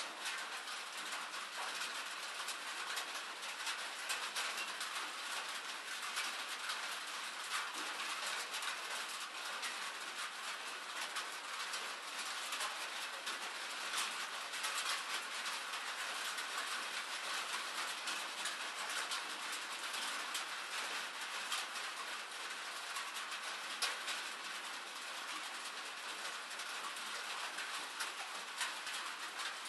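Steady rain, a dense, even patter of drops with no lulls.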